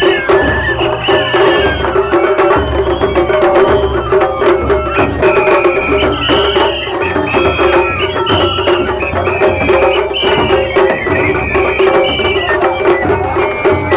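Japanese festival music, matsuri-bayashi style: drums and clacking percussion keep a steady beat under a high melody of held notes, playing without a break.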